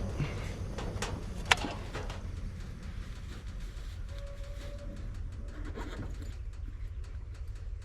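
A bird cooing once, a short steady call about four seconds in, over a low steady rumble; a sharp click comes about one and a half seconds in.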